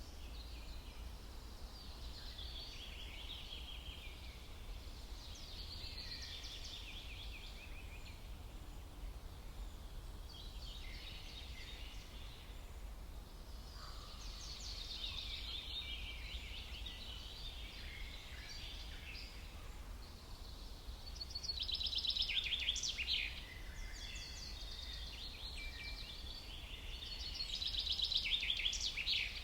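Songbirds singing: repeated phrases of quick high chirps and trills, loudest about two-thirds of the way in and again near the end, over a steady low rumble.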